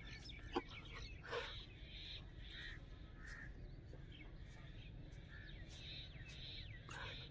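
Faint birds calling on and off over a low steady rumble, with one short soft knock about half a second in.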